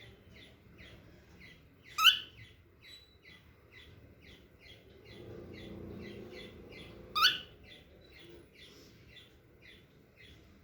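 Young cockatiel chick chirping in short, even peeps about three a second, with two much louder rising calls, about two seconds in and again near seven seconds.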